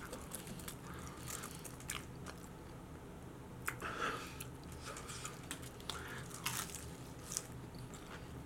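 Close-miked chewing and biting of onion rings dipped in ranch: scattered crunches and wet mouth sounds from a full mouth.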